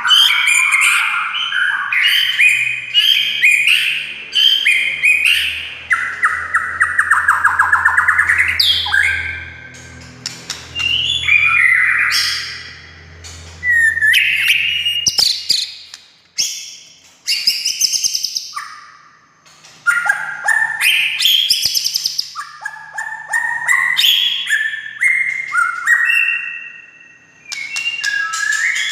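White-rumped shama (murai batu) singing a loud, varied song of whistled phrases, trills and rapid chattering note series, with short pauses between phrases.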